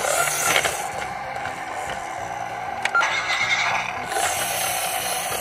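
Electronic sound effect played through a toy police car's small speaker after one of its buttons is pressed. A few sharp clicks come through it.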